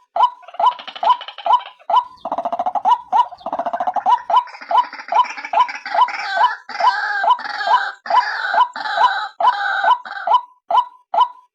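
Female white-breasted waterhen (ruak-ruak) lure call: a single note repeated about twice a second, joined from about half a second in by a dense run of overlapping, faster calls that stops shortly before the end.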